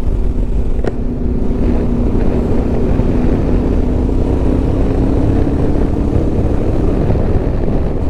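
Yamaha Ténéré 700's parallel-twin engine running steadily on the move, its pitch rising slowly, under heavy wind rush on the helmet microphone. A short click about a second in.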